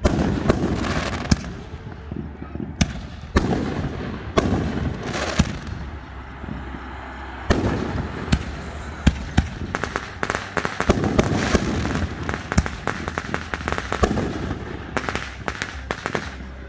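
Aerial fireworks display: shells bursting in a series of booms, then a rapid string of sharp cracks and crackling from about nine to fourteen seconds in, with more bangs near the end.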